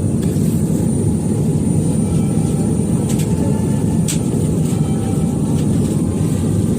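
Steady low rumble of Airbus A320 cabin noise heard from inside the passenger cabin, with a faint high whine and two light clicks about three and four seconds in.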